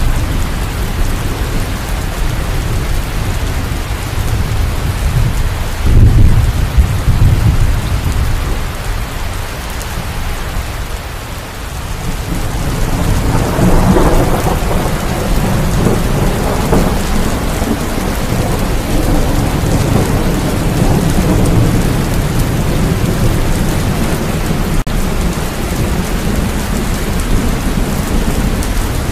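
Steady rain falling, with thunder: a low rumble about six seconds in, and a longer rolling rumble that builds from about halfway through and lingers.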